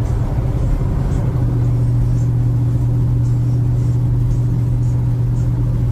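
Truck engine and road noise heard from inside the cab while driving: a steady low drone that grows stronger about a second and a half in.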